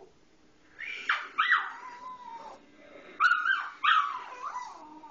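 Dog whining and yelping in high, wavering cries: two pairs of sharp yelps, each trailing off into a long whine, the dog agitated at a pet bird perched up on the ceiling fan.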